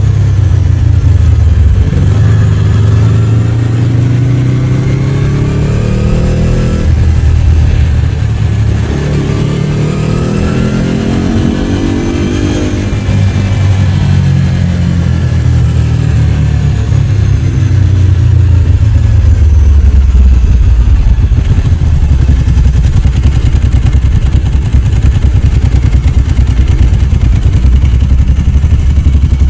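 Ducati 749's 90-degree V-twin engine pulling away: the revs climb, drop sharply about seven seconds in at a gear change, climb again, then settle to low, steady running for the second half.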